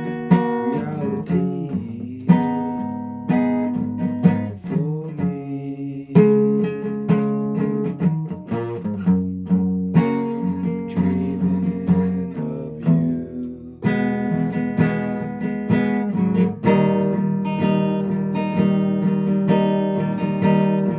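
Guitar strummed and picked, chord after chord left to ring, with no singing; the playing grows fuller and louder about two thirds of the way through.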